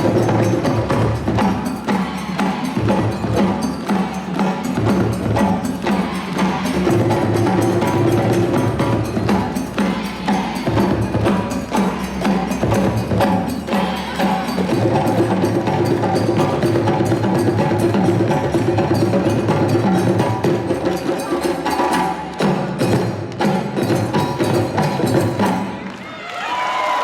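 West African-style parade drum ensemble playing a fast, dense rhythm of sharp hand-drum strokes over low pitched drums. The playing breaks off just before the end.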